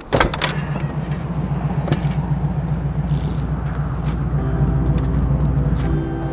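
A classic muscle car's engine idling with a steady, pulsing low rumble, after a loud sudden burst at the start. Sustained music notes come in over it about four and a half seconds in.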